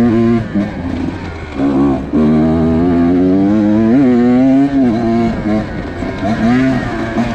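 Husqvarna TX 125 two-stroke enduro motorcycle engine under hard riding, revs rising and falling with the throttle and gear changes. It drops off briefly about one and a half seconds in, holds high revs for a couple of seconds with a quick blip, then eases and picks up again near the end.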